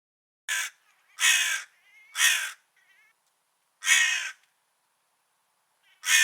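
Crow cawing: five caws, the first three about a second apart, then two more after longer pauses, the last near the end.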